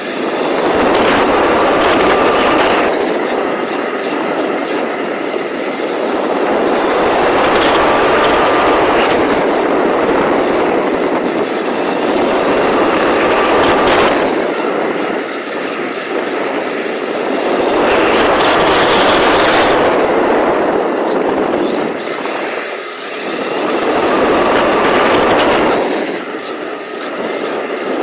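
Rlaarlo XBS radio-controlled car driving in repeated bursts, its motor and gearing giving a faint high whine as each run picks up, over loud rattling drivetrain and tyre noise.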